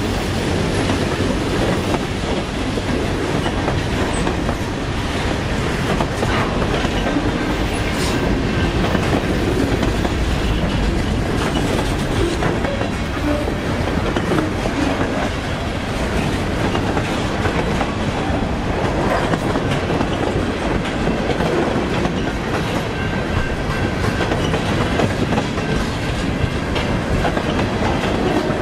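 Mixed freight cars of a passing freight train rolling by at close range: a steady rumble and clatter of steel wheels on the rails that holds at an even level throughout.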